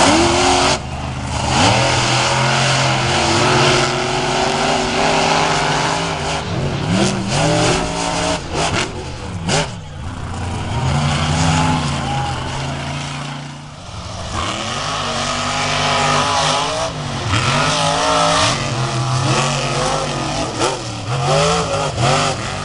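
Monster truck engine revving hard under heavy throttle, its pitch rising and falling again and again. A few sharp knocks come just before the middle, and the engine note drops briefly about 14 seconds in.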